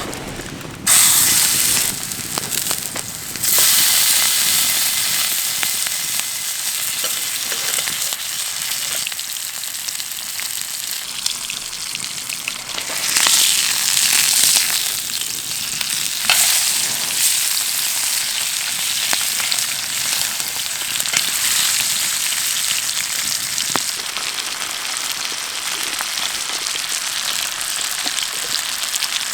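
Food sizzling in oil in a hot iron frying pan over a wood fire, a dense steady hiss with small crackles and pops. It starts suddenly about a second in, grows louder a couple of seconds later and swells again around the middle.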